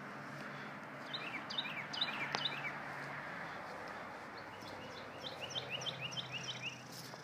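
A small bird chirping in two quick runs of short, falling notes, over a steady outdoor background hiss.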